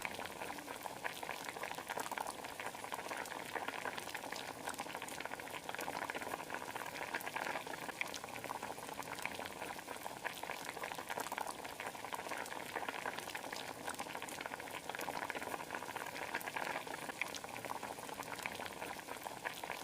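Spiced chicken masala with yogurt and tomato bubbling in a pot on the stove: a steady, even simmer full of small pops and spits.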